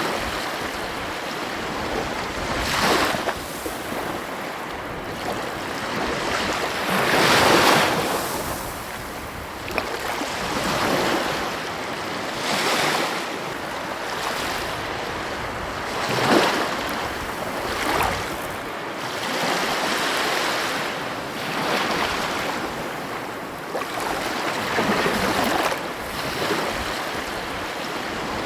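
Ocean waves breaking on a beach, each wave swelling into a wash of surf every few seconds, with the strongest breaks about a quarter and halfway through, over a steady hiss of water and some wind noise on the microphone.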